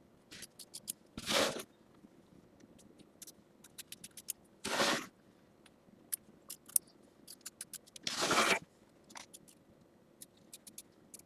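Scissors trimming away excess appliqué fabric around the tack-down stitching: three longer cuts about three and a half seconds apart, with small clicks between them.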